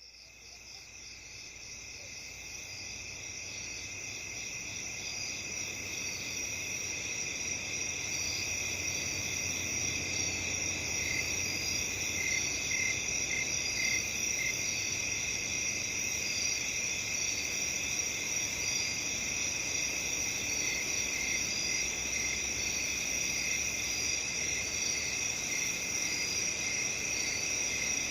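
A dense chorus of crickets chirping steadily, fading in over the first several seconds and then holding at an even level.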